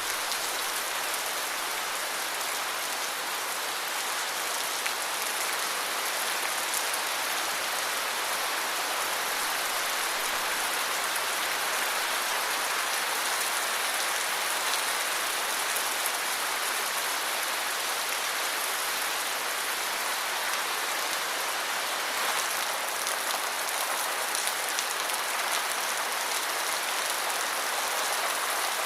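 Steady rain, an even hiss of drops falling on surfaces, with fine scattered patter.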